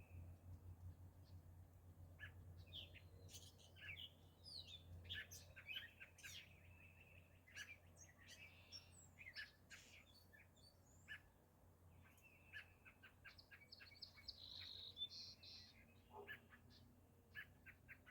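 Several small birds chirping and singing, with short repeated chirps and brief whistled notes overlapping throughout, over a faint low hum.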